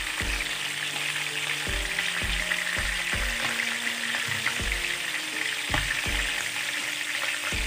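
Chicken pieces shallow-frying in hot oil in a pan, a steady sizzle. Soft background music with a low, regular beat plays underneath.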